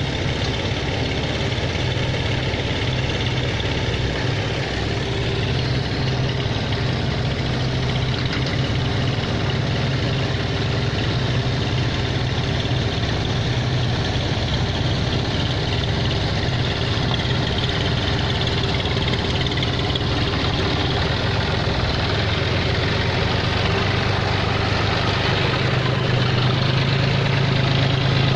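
John Deere 5050D tractor's three-cylinder diesel engine running steadily, a little louder near the end.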